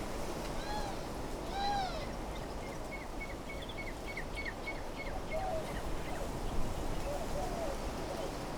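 Wind blowing steadily through desert trees, with birds calling over it. Two arched, hooting calls come about a second apart near the start, followed by a quick run of short chirps, about four a second, lasting a couple of seconds. A few softer calls come near the end.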